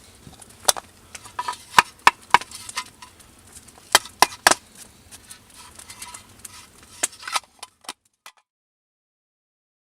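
A series of irregular sharp taps and knocks, some in quick runs of two or three, stopping about eight seconds in.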